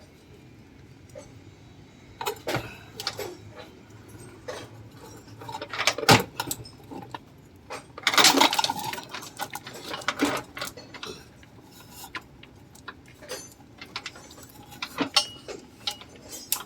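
Metal hand tools and engine parts clinking and knocking during engine work, in irregular knocks and rattles, the loudest a few seconds in and again about halfway through, over a faint steady hum.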